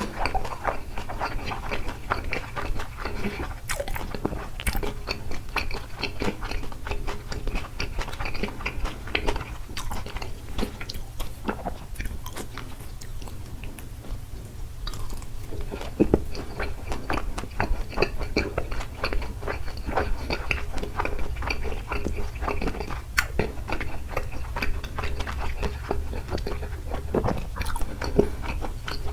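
Close-miked chewing and biting of takoyaki, a dense run of small mouth clicks, over a steady low hum.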